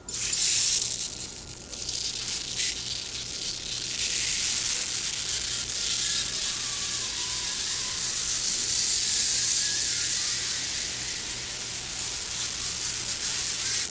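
Loud, steady hissing noise from the anime's soundtrack, strongest in the high frequencies. It cuts off suddenly at the end.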